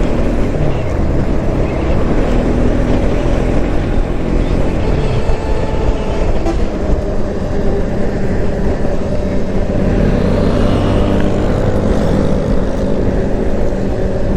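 Motorcycle engine running steadily under way, with a constant rush of road and wind noise.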